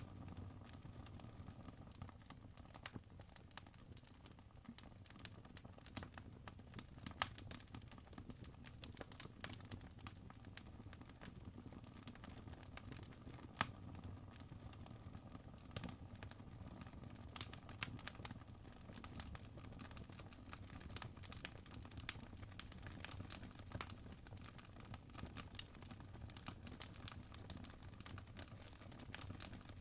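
Fire crackling quietly: irregular sharp pops and snaps over a low steady hum.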